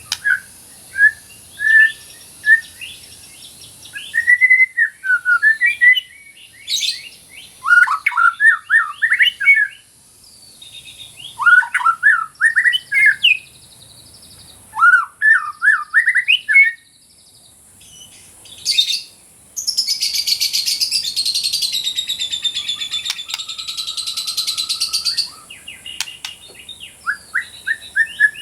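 White-rumped shama (murai batu) singing in bursts of quick, sweeping whistled notes, with a long harsh buzzing passage about two-thirds of the way through. A steady high hiss runs under the song.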